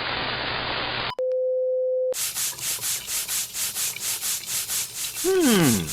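A run of edited sound effects: a steady hiss, then a plain beep tone held for about a second, then rhythmic rubbing strokes at about four a second, with a falling pitched swoop near the end.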